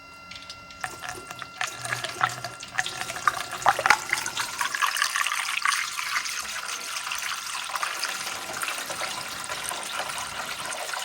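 50/50 antifreeze coolant being poured into the overflow reservoir. It starts about a second in as uneven splashing, then settles into a steady pouring stream.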